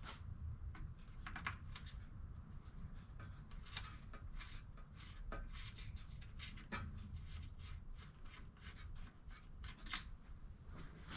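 Faint rubbing and scattered light clicks and taps of hands working at the mower while its engine oil is topped up and the dipstick checked.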